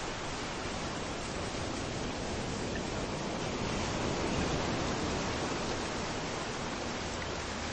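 Rain falling and waves rolling in on a beach, blending into a steady rush of noise that swells slightly about halfway through.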